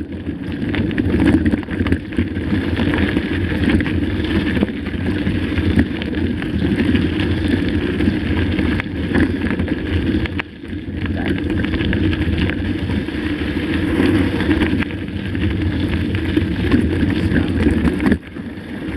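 Mountain bike rolling over a rough dirt and stone track: a steady rumble and rattle, with wind on the microphone. The noise dips briefly twice, about ten seconds in and near the end.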